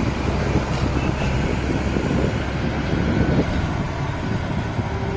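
Steady road noise and wind on the microphone from a moving vehicle.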